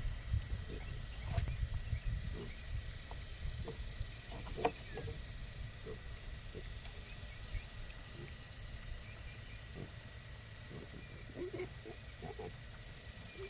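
Pigs grunting in short, scattered grunts, a cluster about four seconds in and more near the end, over a low rumble that fades after the first couple of seconds.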